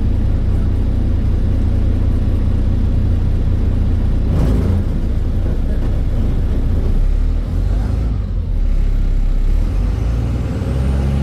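Inside a NefAZ-5299 city bus on the move: a steady low engine drone mixed with road noise. About seven seconds in, the engine note drops lower. There is a brief louder noise about four and a half seconds in.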